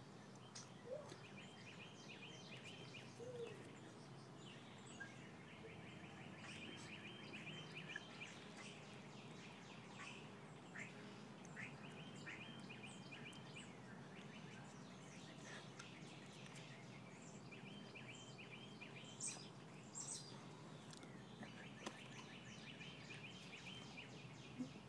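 Faint bird song: a short trilled phrase of rapid chirps repeated about every five seconds, over steady background noise.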